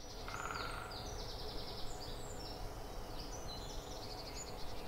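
Several birds singing at once: overlapping high chirps and fast trills, over a steady low background rumble.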